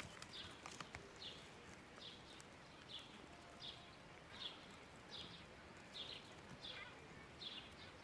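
Faint bird call: one short, high chirp sliding downward, repeated steadily about every three-quarters of a second.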